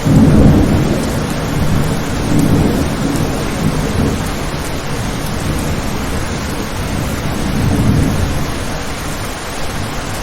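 Steady rain with a roll of thunder. The low rumble breaks in suddenly at the start and swells again twice before easing back into the rain.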